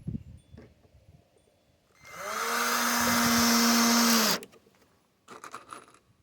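Power drill driving a screw into a wooden hive-top frame: it spins up about two seconds in, runs at a steady whine for a couple of seconds, then winds down and stops. A few light clicks follow near the end.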